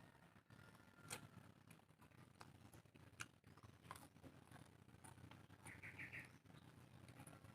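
Faint eating sounds: soft chewing with scattered small mouth clicks. About six seconds in there is a brief quick run of four or five high chirps.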